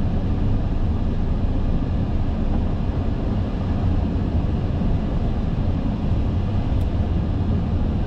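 Steady low rumble and hiss of an Airbus A380 flight deck in flight on approach: airflow and air-conditioning noise.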